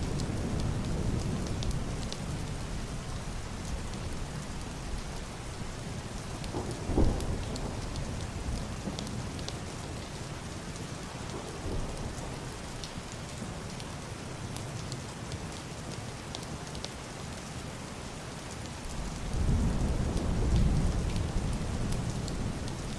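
Heavy rain pattering steadily on a roof and window glass, with fine drop ticks throughout. Low, muffled thunder rumbles at the start, a short sharp thud comes about seven seconds in, and a deeper roll of thunder swells near the end.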